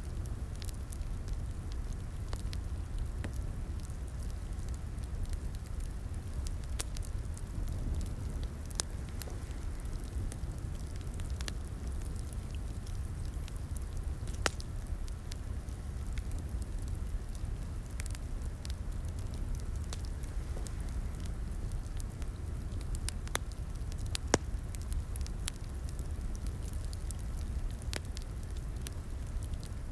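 Crackling wood fire in a fireplace: a steady low rumble of the flames with scattered irregular pops and cracks, two of them sharper about 14 and 24 seconds in.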